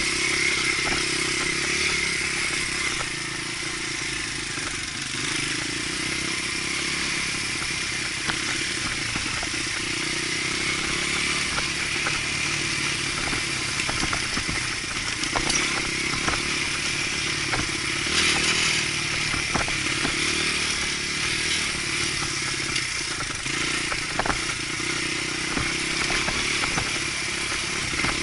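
Dirt bike engine running steadily while riding, with scattered knocks and rattles throughout.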